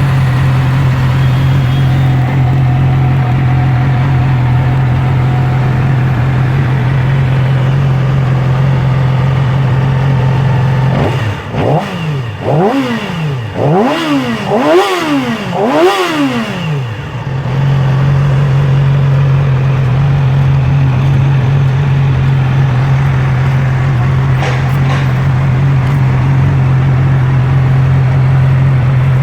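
2009 Yamaha R6's inline-four engine idling steadily, with a run of about five quick throttle blips midway, the later ones revving higher, before it settles back to idle.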